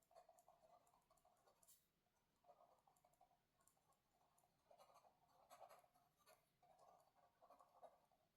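Faint scratching of writing on paper, in short spells of a second or two with brief pauses between them.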